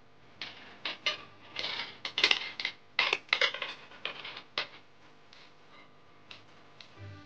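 A plastic drinking-water bottle being handled and worked by hand, with a quick run of irregular crackles and scrapes that dies away after about five seconds.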